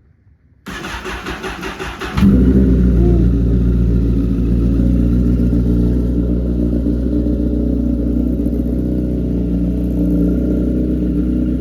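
2012 Honda CBR1000RR's inline-four engine cold-started after sitting for a couple of weeks. The starter cranks for about a second and a half, then the engine catches and settles into a steady idle.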